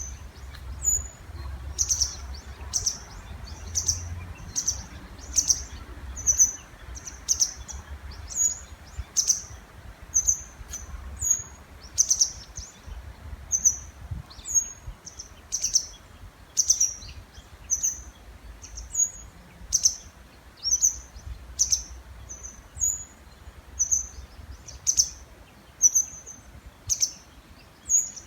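A bird calling over and over in the breeding season: short, sharp, high chirps, a little more than one a second, with a faint low rumble underneath.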